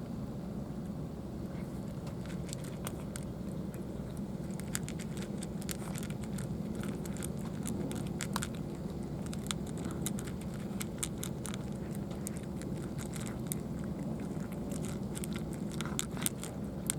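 A cat chewing dry food: irregular crisp crunching clicks, denser in the second half, over a steady low rumble.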